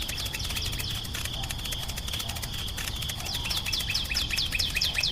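Birds chirping in quick, repeated falling notes, growing busier through the stretch, over a steady high insect-like drone and a low rumble.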